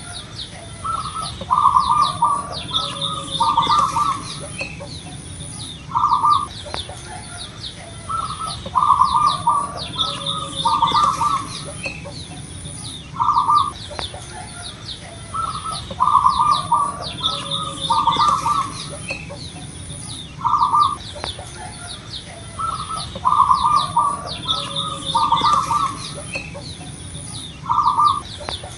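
A local zebra dove (perkutut) singing loud, strong song: groups of short, clipped cooing notes that repeat as a phrase about every seven seconds, with high, quick chirps of smaller birds running underneath.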